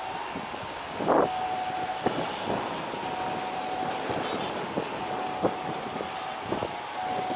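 Jet airliner engines with a steady whine in two tones, heard over strong wind buffeting the microphone, with short knocks and a louder gust about a second in.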